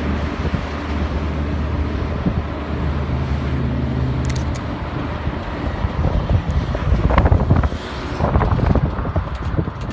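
Diesel locomotive engine running with a steady low hum, with wind on the microphone; rattling and sharp clanks from about seven seconds in.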